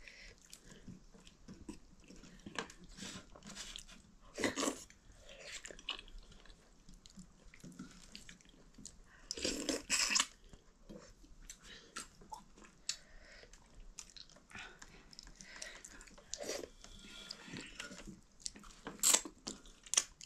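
Close-up eating sounds: wet chewing and lip smacks as maize dhido and chicken are eaten, a run of small clicks with a few louder noisy bursts about four and a half and ten seconds in.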